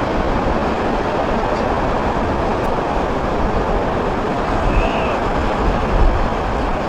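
Jet airliner passing low overhead on final approach, its engines a loud, steady rush of noise.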